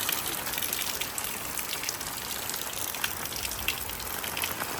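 Heavy monsoon rain falling steadily: a constant hiss with many sharp drop ticks hitting nearby surfaces.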